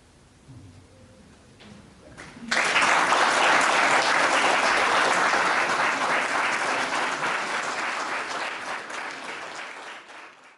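Audience applauding, breaking out suddenly about two and a half seconds in and slowly dying away near the end.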